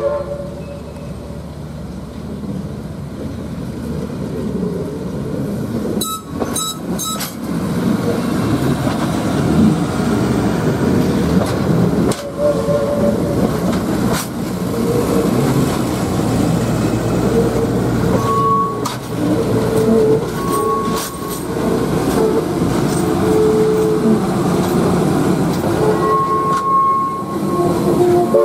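Passenger coaches of a steam-hauled train rolling slowly past on curved track: a steady wheel rumble with short squeals now and then in the second half, the train shoved by Southern Railway steam locomotive No. 4501, whose tender comes level near the end.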